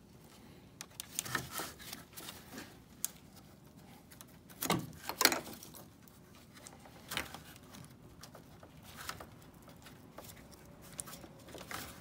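Scattered light plastic clicks and knocks from hands working at a Ford F-150 grille and unplugging its wiring connectors, with two louder knocks about five seconds in.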